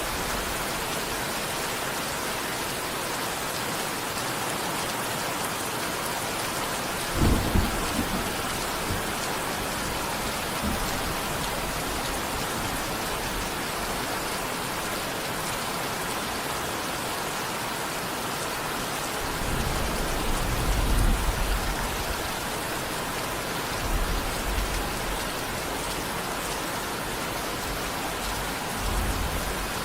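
Steady heavy rain. Low thunder rumbles come through it: a short sharp one about seven seconds in, a longer rolling one around twenty seconds, and smaller ones near the end.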